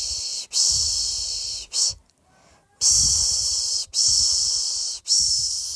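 A person shushing to lull a baby to sleep: a rhythmic run of long 'shh' hisses, each about a second long, with a brief short 'sh' after one of them and a pause of under a second about two seconds in.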